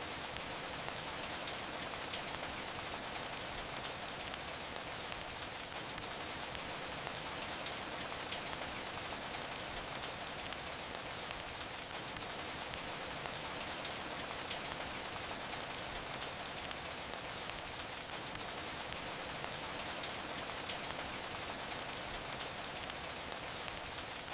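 Steady rain falling, an even hiss with scattered sharp ticks and a few louder pops.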